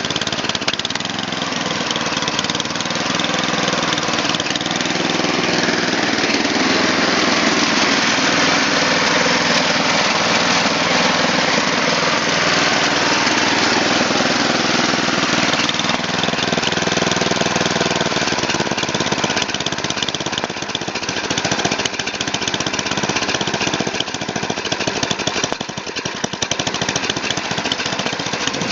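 An 11 hp Tecumseh Snow King engine on a Murray Select snowblower running steadily, still warming up after a cold start at about freezing. Its even note changes a little past halfway through.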